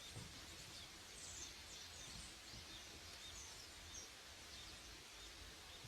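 Near silence outdoors with faint birdsong: scattered short, high chirps throughout.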